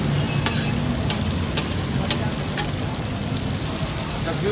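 Liver chunks and tomatoes sizzling and frying on a large flat tawa griddle, with sharp metal ticks about twice a second over a steady low rumble.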